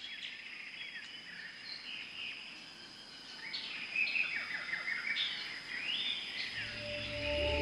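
Several birds chirping and calling in a busy chorus over a steady high-pitched tone. Soft sustained music fades in near the end.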